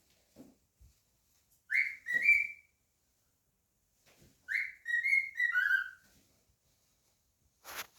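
Cockatiel whistling two short phrases of a few clear, stepped notes, each phrase about a second long, with a brief noisy burst near the end.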